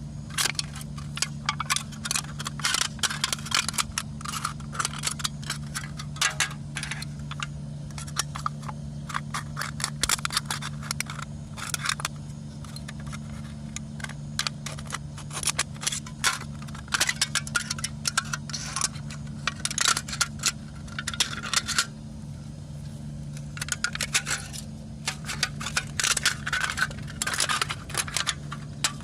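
Metal cookware and utensils clinking and scraping against each other in irregular clusters of sharp clicks, with short pauses.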